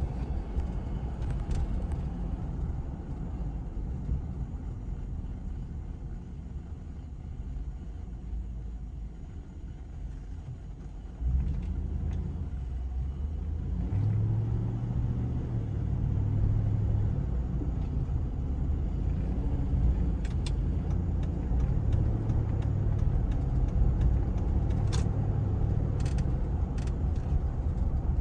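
2005 Cadillac Escalade's 6.0-liter Vortec V8 running with a low, steady rumble that gets abruptly louder about eleven seconds in and stays louder.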